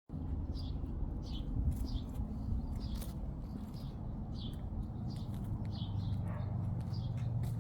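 Small bird chirping over and over, short falling calls about two a second, over a steady low rumble.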